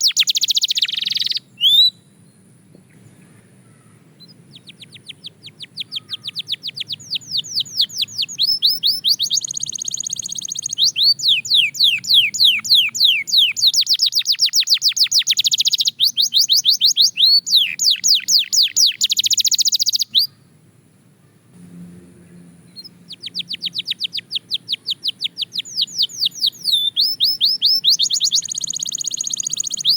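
Belgian canary singing long phrases of rapid, repeated falling notes, with short pauses between phrases, a little after the start and again past the middle.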